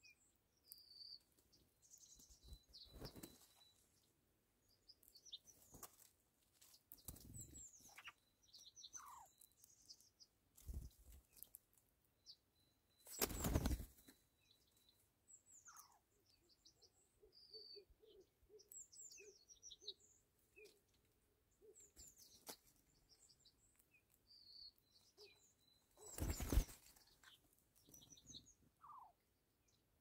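Small birds giving short, high chirps and calls, with a few brief wing flutters, the loudest about 13 and 26 seconds in.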